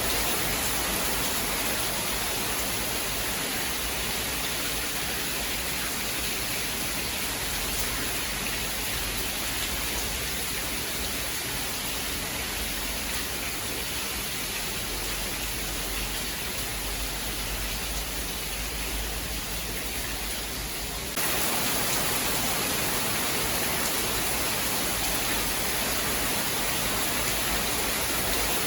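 Steady rain, an even hiss with no thunder heard; it gets suddenly louder about two-thirds of the way through.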